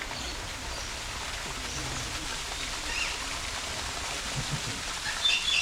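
A steady, even rushing noise with a few short, high bird chirps: one set about three seconds in and a brighter set near the end.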